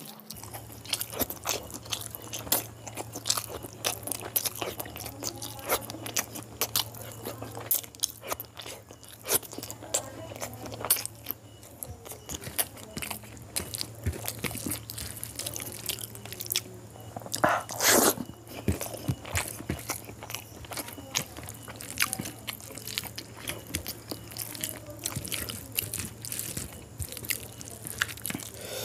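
Close-miked wet chewing and lip smacking of mouthfuls of boiled quail eggs in chicken curry, mixed with the squish of a hand mashing the curry-soaked eggs on a steel tray. A louder burst comes about eighteen seconds in, over a steady low hum.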